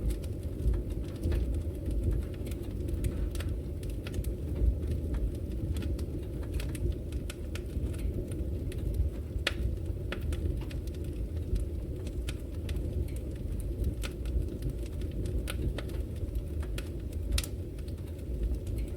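Wood fire burning in a fireplace, crackling: irregular sharp pops and snaps, several a second, over a steady low rumble.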